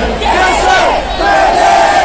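A large crowd singing together loudly, many voices carrying a slow tune in unison.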